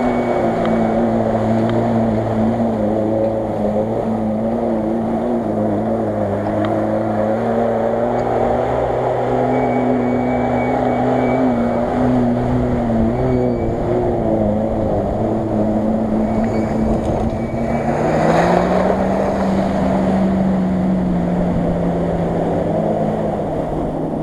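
Car engine running at changing revs while driving through water, rising in pitch and holding higher about eighteen seconds in as it is revved.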